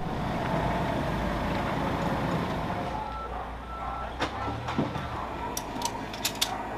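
A vehicle's reversing alarm beeping over a steady engine rumble, with several sharp clicks in the second half.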